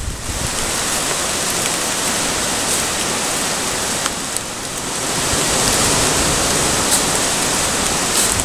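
Heavy rain as a steady hiss, with a few scattered sharp ticks.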